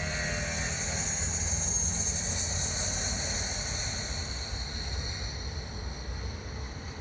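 Jet aircraft engines running at takeoff: a steady high whine over a low rumble, slowly fading over the second half.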